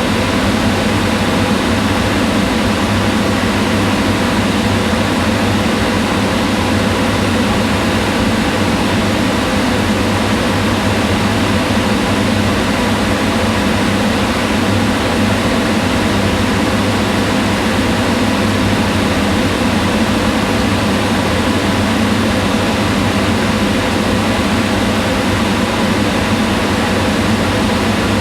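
Kitchen range hood fan running steadily, a constant whir with a low hum under it.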